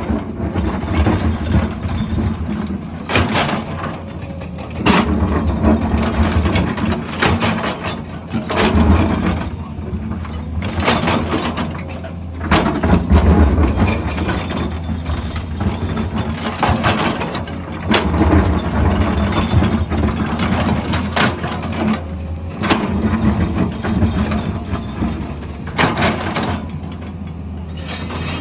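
Excavator working on a road cut: its diesel engine runs steadily under load while the bucket and tracks give irregular clanks, knocks and scrapes on rock and soil every second or two.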